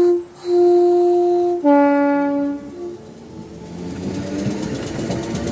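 Two-tone train horn: the high note sounds, breaks off briefly and is held again for about a second, then the low note for about a second, with a short high blip after it. A rumble of the train starting to move builds up afterwards.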